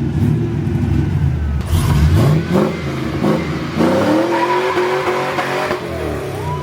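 Chevrolet C10 pickup's swapped-in engine revving hard through its new exhaust. Its pitch climbs about two seconds in, climbs higher from about four seconds, then falls away near the end.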